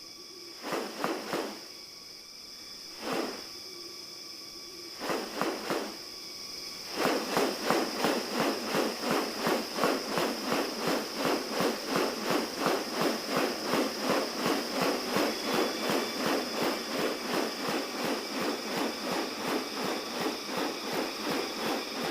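Rainforest insects droning in several steady high tones. A few short rustling bursts come in the first six seconds, then from about seven seconds a fast, even rustling pulse, around three a second.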